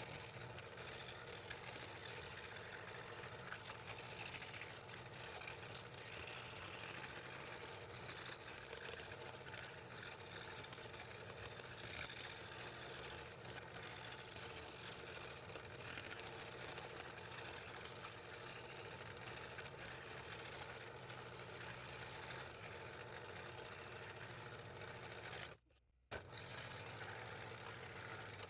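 Scroll saw running steadily with a low hum as its blade cuts through a stacked, layered piece of wood. The sound drops out for a moment near the end.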